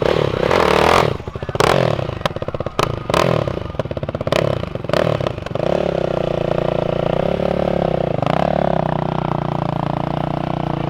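Motorcycle engine revving, then a few seconds of irregular sharp pops and clicks, then settling into a steady idle.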